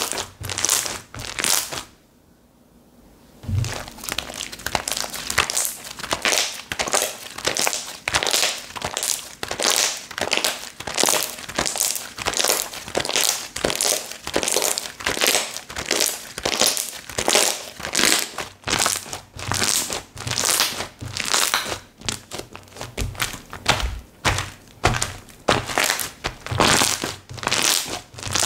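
Slime being squished and poked by hand: a steady run of crackling clicks, about two or three a second, with a brief pause about two seconds in.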